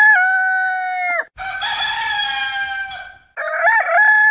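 Rooster crowing, three long drawn-out crows one after another: one ending about a second in, a second in the middle, and a third starting near the end.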